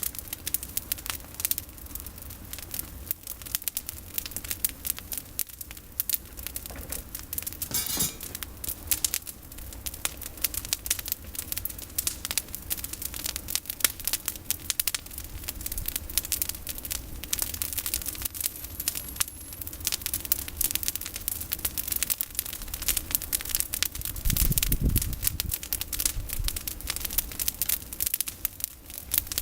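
Campfire of olive-tree prunings crackling, a dense, irregular stream of sharp snaps and pops. A brief low rumble comes near the end.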